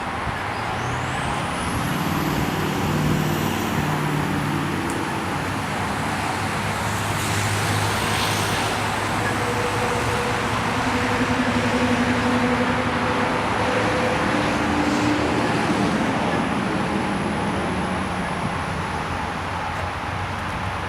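Steady motor-vehicle road noise, a continuous rumble with a low engine drone that shifts a little in pitch.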